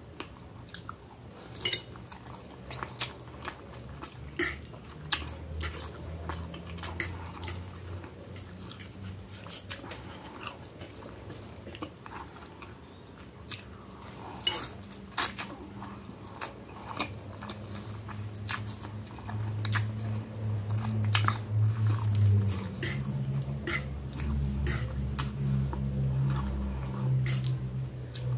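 Close-up eating sounds of spaghetti in tomato and sausage sauce: wet chewing and many short mouth clicks. Behind them a low hum starts a few seconds in and grows louder in the second half, where it is the loudest sound.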